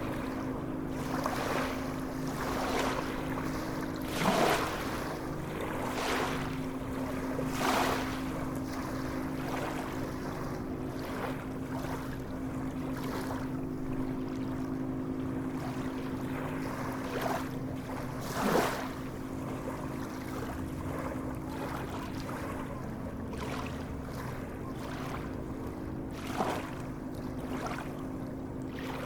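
Sea waves washing, with a handful of louder splashing surges, over a steady low hum.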